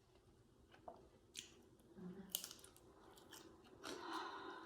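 Faint chewing of crispy fried food, with a few sharp crunches scattered through.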